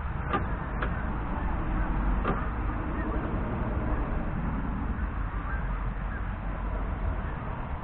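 Geese honking at a distance over a steady low rumble, with three sharp clicks in the first couple of seconds.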